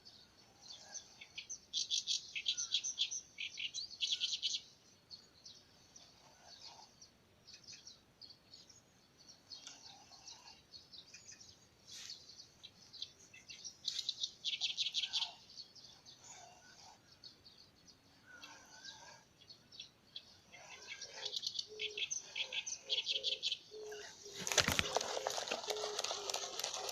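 A fishing reel being wound in short spells of rapid clicky whirring, a second or three at a time with pauses between, as a lure is retrieved; a louder rushing noise comes near the end.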